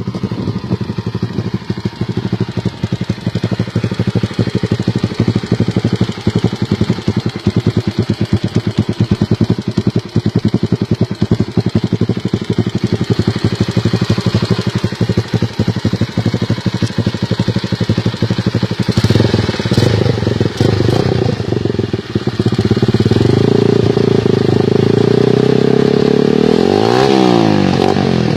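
Honda Sonic single-cylinder motorcycle engine through a loud aftermarket exhaust, idling with a fast, even popping beat. About two-thirds of the way in the revs are raised and held, and near the end there is a quick blip up and back down.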